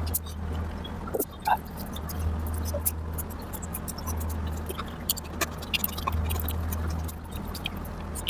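Close-miked wet chewing and lip-smacking while eating rice and curry: a quick irregular run of small sharp mouth clicks with a few short squeaks. A steady low hum sits underneath.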